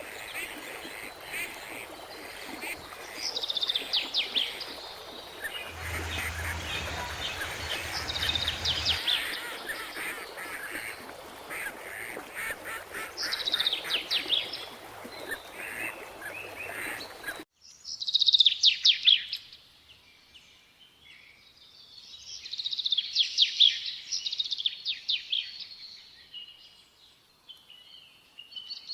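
Birds calling in harsh, rapid chattering bursts, one every few seconds. About two thirds of the way in, the background hiss cuts off abruptly and the calls carry on over a quieter background.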